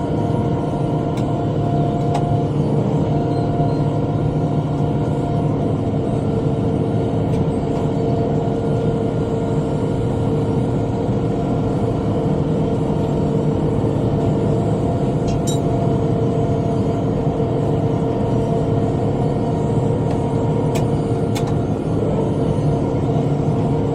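Tractor engine running steadily while driving a rotary cutter (bush hog) through brush. A few faint sharp clicks come through near the middle and toward the end.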